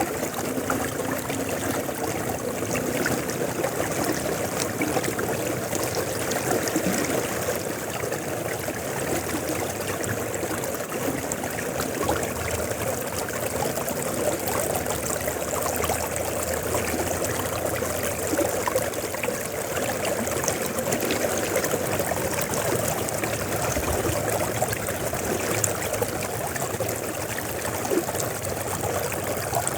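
River water flowing steadily, a continuous rushing with light splashing and trickling.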